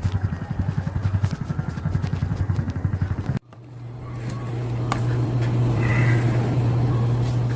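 A vehicle engine running with a fast, even pulsing beat, cut off abruptly about three and a half seconds in. It gives way to a steady engine drone that fades in and holds.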